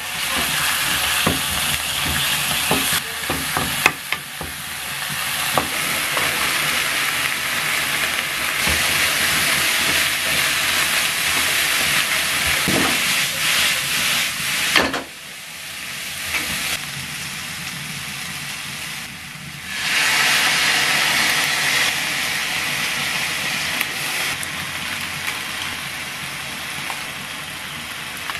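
Ground chicken and green vegetables sizzling as they stir-fry in a frying pan, with a wooden spatula clicking and scraping against the pan. The sizzle drops away briefly twice in the middle.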